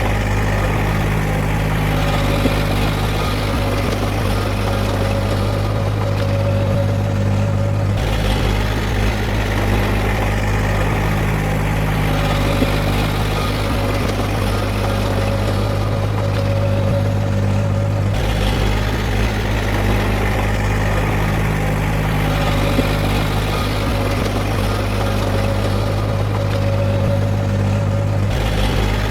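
Heavy diesel engine of earthmoving machinery running steadily, a low drone with little change in pitch and a small shift in tone about every ten seconds.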